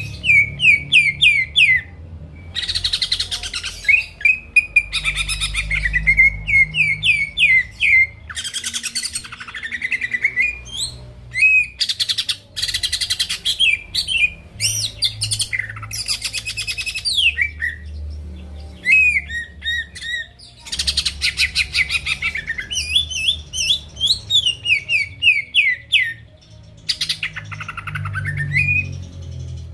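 Cucak ijo (green leafbird) singing loudly and without a break: quick runs of sharp chirps alternating with harsh, rasping, scratchy phrases.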